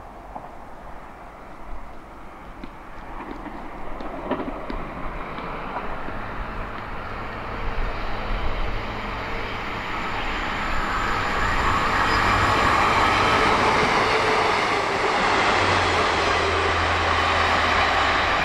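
A Class 150 diesel multiple unit approaching. The drone of its diesel engines and the noise of its wheels on the rails grow steadily louder as it nears, then hold at their loudest.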